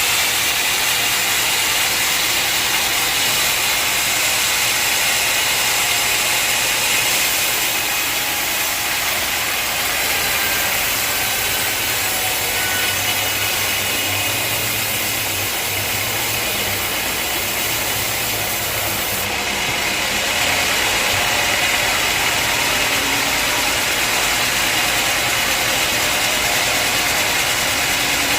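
Sawmill machinery running steadily: a loud, unbroken mechanical whir and hiss.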